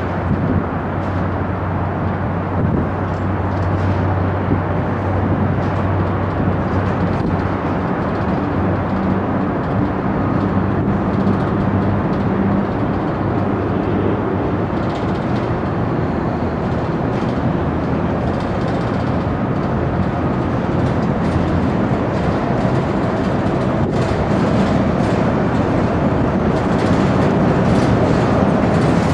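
Freight train moving slowly through a rail yard: a KLW NZE15B genset switcher locomotive's diesel engine runs with a steady low hum while it moves a boxcar. The train grows a little louder near the end as the cars come closer.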